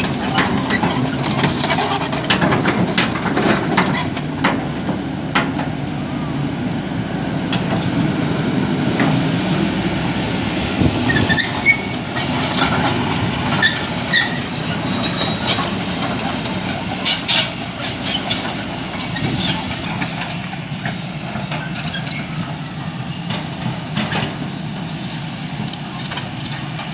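Excavator engine running steadily under load, with many scattered metallic clanks and knocks and a few short squeaks.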